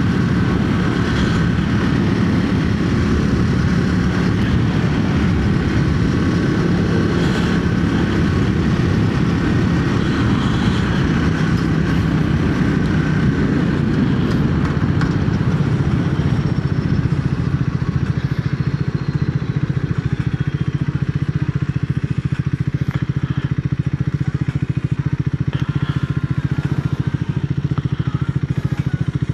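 Triumph Speed 400's single-cylinder engine running at a fairly steady pitch as the motorcycle is ridden.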